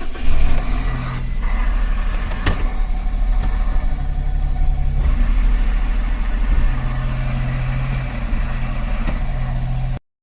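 Suzuki Every's 660 cc three-cylinder engine idling steadily just after starting, with the AGS automated manual transmission fitted. The clip is shown as the abnormal transmission noise under investigation. One sharp click about two and a half seconds in, and the sound cuts off just before the end.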